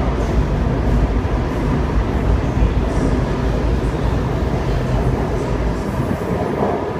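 Waratah (A-set) double-deck electric train pulling out of the platform: a steady low rumble of wheels and motors that eases near the end as the last carriage clears the platform.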